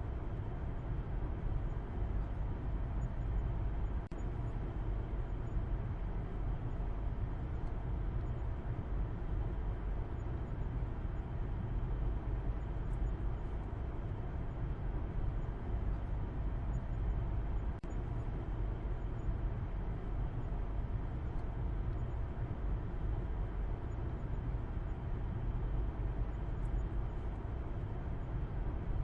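Steady road noise of a car driving, a low rumble with a hiss above it that does not change.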